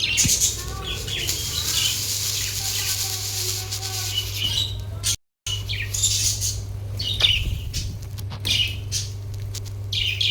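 Pet budgies chirping and chattering in short, high calls, with a rush of noise, likely wing flutter, during the first half. The sound cuts out briefly just past the middle, over a steady low hum.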